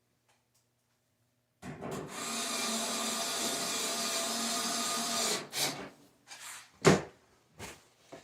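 Power drill driving a screw into a dryer's top panel, running steadily for about three and a half seconds, followed by a few sharp knocks.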